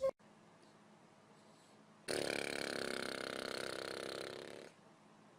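A baby's long buzzing fart, one steady low-pitched note lasting about two and a half seconds, starting about two seconds in and fading slightly before it stops.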